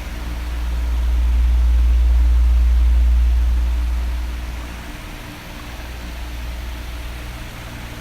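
Electric fan blowing steadily, with an even airy hiss and a faint motor hum. A deep rumble of moving air swells for a few seconds in the first half, then eases off.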